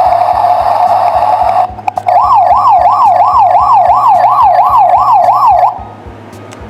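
Electronic sound effects from a toy helicopter's built-in speaker: a steady rushing sound, then after a short break with a click, a wailing siren that sweeps up and down about three times a second and cuts off suddenly near the end.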